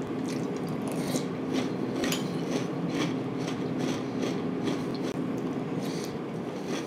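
Close-up chewing of crunchy Franken Berry cereal in milk, a crisp crunch about twice a second over a steady low hum.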